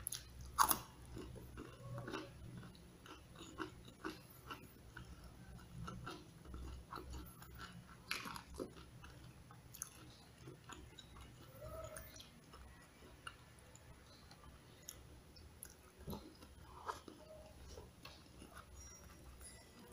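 Close-up chewing and biting of crispy fried chicken and rice, with irregular small crunches and a few louder bites.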